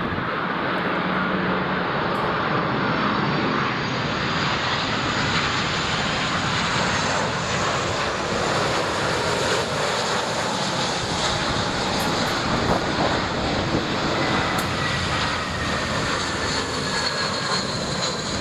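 Airliner's jet engines running as it passes: a steady, loud rush of engine noise with faint whining tones that drift slowly in pitch.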